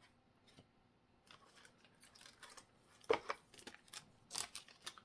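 Pokémon cards and a foil booster pack being handled: a quick run of short crinkles and rustles starting about a second in, the loudest about three seconds in.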